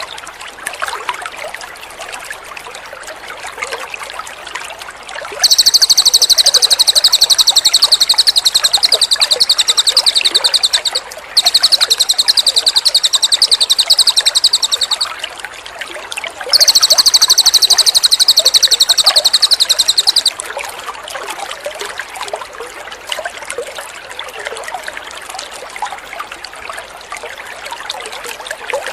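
Cililin bird singing three long, loud trills of rapid high notes, each lasting three to six seconds, starting about five seconds in, over steadily trickling water.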